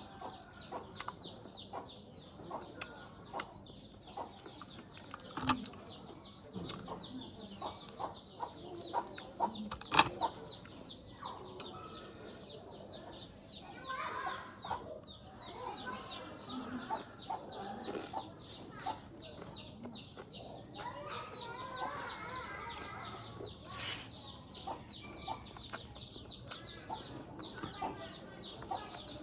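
Chickens clucking over a steady, fast, high-pitched pulsing, with scattered sharp clicks and taps, the loudest about five and ten seconds in.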